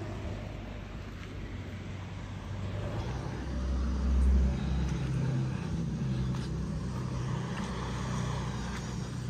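A motor vehicle's engine running close by: a low, steady rumble that swells about three seconds in and is loudest a second later.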